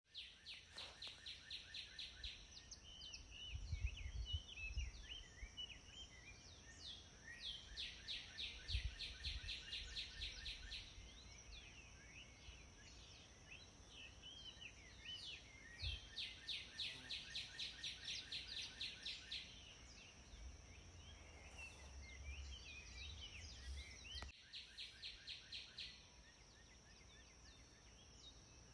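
Birds singing: a song of rapid repeated chirping notes, about five a second, comes back every several seconds, among other scattered chirps. A steady thin high tone and an occasional low rumble lie underneath.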